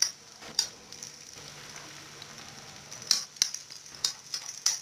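Grated potato pancake frying in shallow oil in a nonstick pan: a steady sizzle with sharp crackles and pops, coming more often in the second half.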